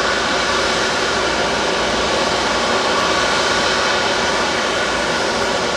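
Jet airliner engines running, a steady, loud rush of noise with faint high whining tones held at one pitch.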